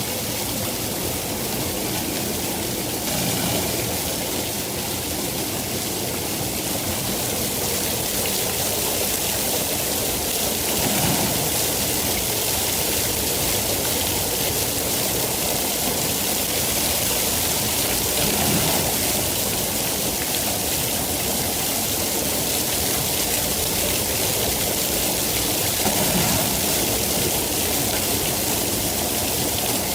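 Steady heavy rain, a dense even hiss that swells briefly a few times.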